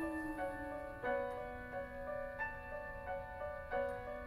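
Piano playing a slow, gentle accompaniment between sung lines of a ballad, with notes struck every half second or so and left to ring.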